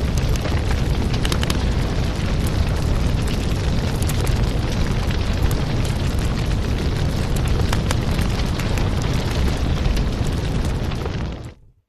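Fireplace sound: a steady low rumble of burning wood with scattered sharp crackles and pops. It fades out to silence for a moment near the end and comes straight back.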